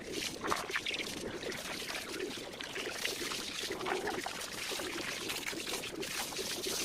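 Water being poured and splashing unevenly over a motorcycle as it is washed.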